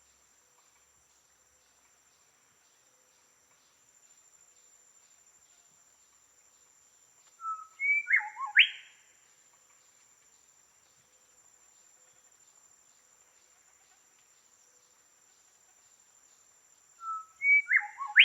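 A songbird singing a short phrase of a few quick, sweeping whistled notes lasting about a second, repeated twice: about eight seconds in and again near the end. Under it runs a steady thin high-pitched tone.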